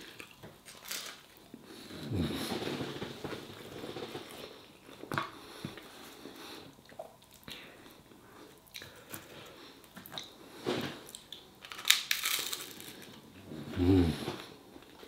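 A man chewing and biting roasted garlic flatbread dipped in curry, with scattered crunches and a denser crackle about twelve seconds in. A short closed-mouth hum near the end.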